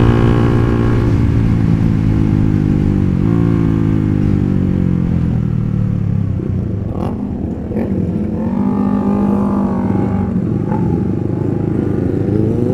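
Honda sport motorcycle engine heard from the rider's own bike, its pitch falling steadily as it slows off the throttle, with a brief blip about three seconds in. It runs low for a while, then begins to rise again near the end.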